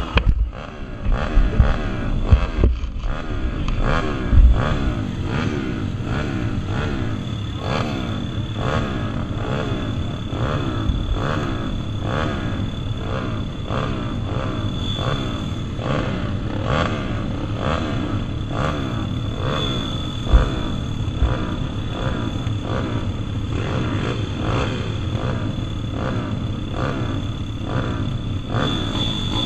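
Several small single-cylinder pit bike engines racing around a motocross track, revving up and falling back over and over as they pass, with a few low thumps in the first seconds. A thin steady high whine runs underneath from about seven seconds in.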